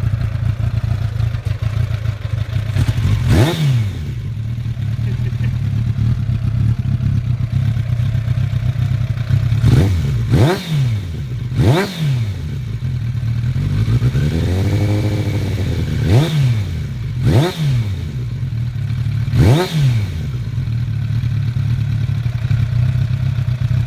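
1999 Suzuki Bandit 600's inline-four engine idling through a Devil Master Carbon aftermarket silencer. It is blipped quickly to higher revs and back about six times, and once revved up and down more slowly near the middle.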